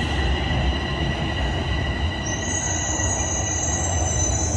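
TTC Toronto Rocket subway train approaching the station: a continuous low rumble under several steady high-pitched tones, with a higher squeal joining about two seconds in.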